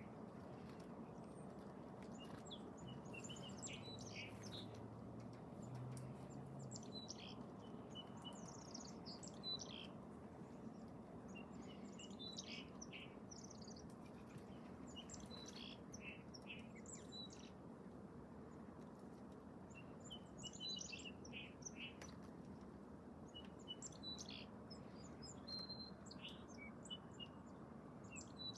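Small birds chirping and tweeting in short, scattered high calls over a steady low outdoor background hiss.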